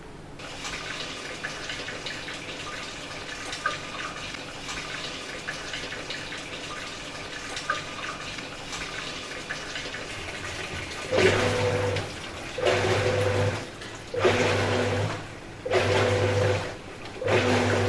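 Whirlpool top-loading washing machine filling, a steady rush of water into the tub. About eleven seconds in, the wash motor starts agitating in repeated bursts of about a second with short pauses between them, the fill and agitation stages of the auto diagnostic wash cycle.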